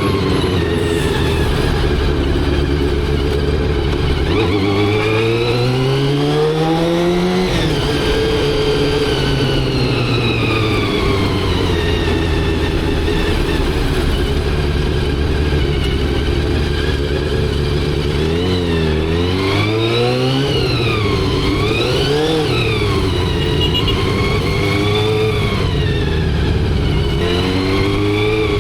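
Motorcycle engine running under way: the revs climb steadily from about four seconds in and drop sharply at a gear change a few seconds later, then hold a steady pitch. From about eighteen seconds the revs rise and fall several times in quick succession, then climb again near the end.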